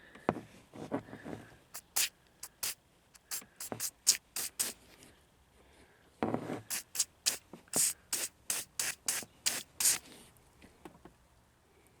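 Aerosol can of PB Blaster penetrating catalyst sprayed in many short spurts of hiss onto rust-seized seat hinges to free them. There are a couple of duller rubbing sounds near the start and about six seconds in.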